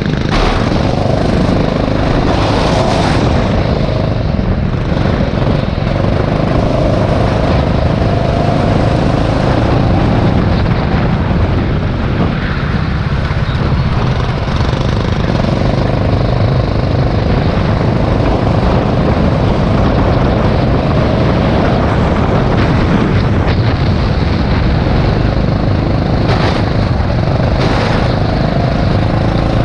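Rental go-kart engine running hard, its note falling and rising a few times as the kart slows and accelerates again, with a constant rush of wind and road noise.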